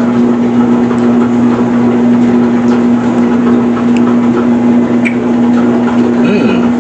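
Steady hum of a motor or electrical appliance, one low tone held unchanged throughout. About six seconds in, a short hummed "mm" from the taster.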